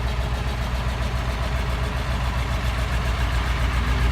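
Blue Bird bus engine idling steadily after a cold start, running evenly with no revving or misses.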